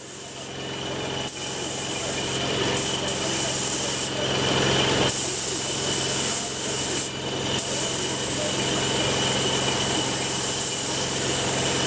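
Compressed-air spray gun hissing steadily as it lays clear coat on a repaired car side step, with a steady machine hum underneath. It builds up over the first few seconds and dips briefly about seven seconds in.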